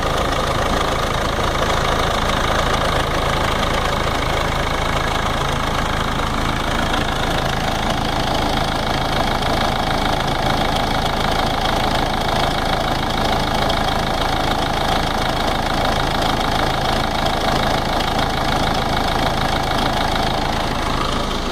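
Ford Ranger 3.0 NGD diesel engine idling steadily, with a noise from the timing case that marks a fault there. A steady high-pitched tone sits over the running engine and drops somewhat in pitch about a third of the way in.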